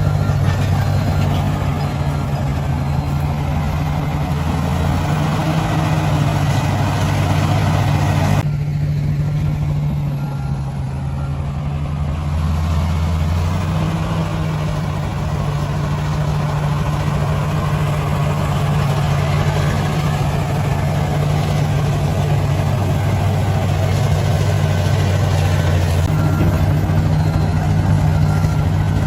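Bulldozer diesel engine running steadily with a low hum. About eight seconds in, the noisier upper part of the sound drops away abruptly and then slowly builds back.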